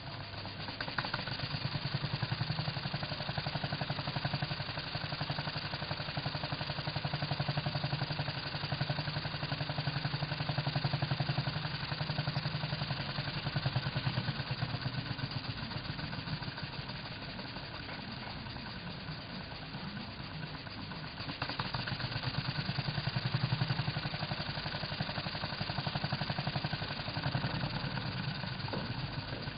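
Single-cylinder model beam steam engine running with a fast, even rhythm of strokes. It drops quieter for a few seconds past the middle, then picks up again.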